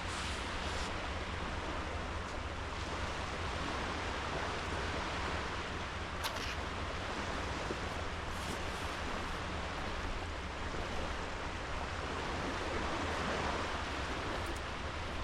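Sea waves washing onto a sandy beach, a steady rush of surf that swells a little near the end, with one faint tick about six seconds in.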